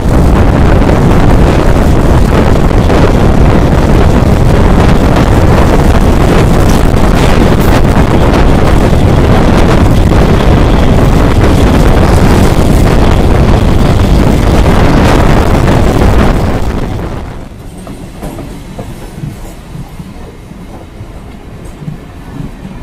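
MEMU electric train running on the line, heard from the side of a moving coach: a loud, dense rush of wind and wheel-on-rail noise. About 17 seconds in it drops sharply to a much quieter train sound.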